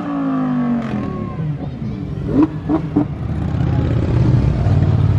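Car engine revving: the revs fall away right after a blip at the start, then it runs with a steady low rumble that grows louder in the second half.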